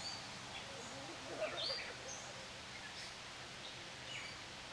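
Several birds chirping and calling in short, scattered notes and quick pitch glides over a steady background hiss, with a louder burst of calls about a second and a half in.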